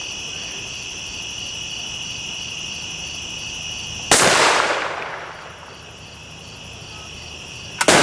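Oxyhydrogen (HHO) gas ignited inside a hollow tree goes off with one sharp bang about four seconds in, fading over about a second. Another bang comes right at the end. Night insects chirp steadily throughout.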